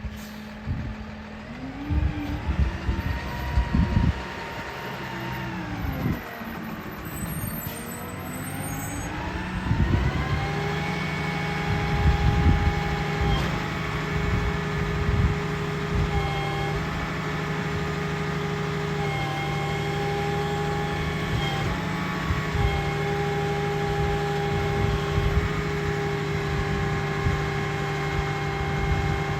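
Garbage truck's engine revving up and down, with irregular knocks and bangs during the first ten seconds. About ten seconds in, the engine settles into a steady, raised running speed that holds.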